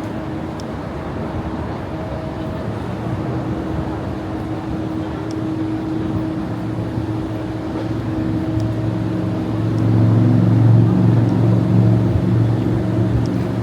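City street noise with a steady mechanical hum. In the last few seconds a motor vehicle engine grows louder, then fades.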